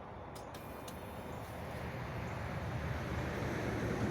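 Rumble of a passing road vehicle, growing steadily louder as it approaches.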